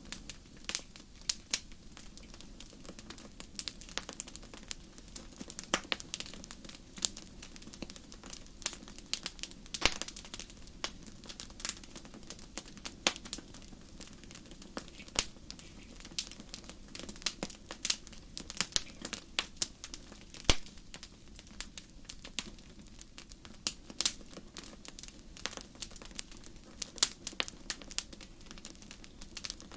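Fireplace fire crackling: a steady run of sharp, irregular snaps and pops, several a second at times, over a low, steady rumble of the flames.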